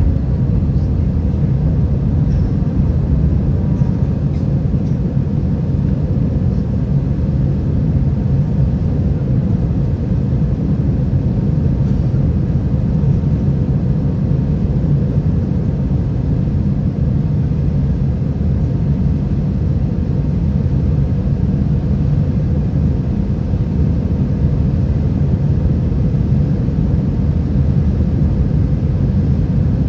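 Steady low rumble inside the cabin of an Airbus A320 with IAE V2533 engines, heard from a window seat near the wing. It is engine and airflow noise, even throughout with no rise or fall.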